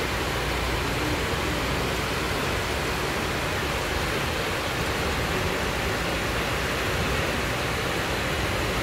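Steady hiss of heavy rain pouring down.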